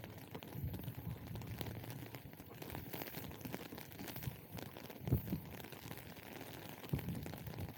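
Rain-soaked outdoor ambience heard on a walk: a steady hiss of rain and wet street noise with low rumbles, and two short thumps about five and seven seconds in.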